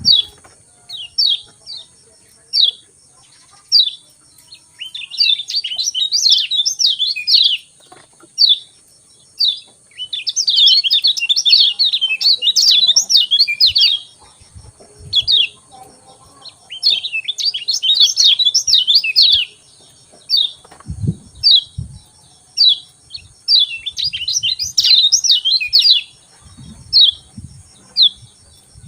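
Kecial kuning (yellow white-eye) calling: short, sharp high chirps about one or two a second, broken four times by bursts of fast, dense twittering song lasting a few seconds each.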